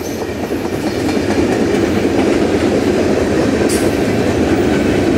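Work train passing close by: a pair of GE Dash 8-32BWH diesel locomotives running as they pull away, with a string of gondola cars rolling past on steel wheels. The rumble builds over about the first second, then holds steady and loud.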